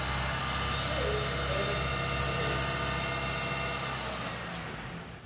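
Geo Tracker's four-cylinder engine idling steadily, fading away just before the end.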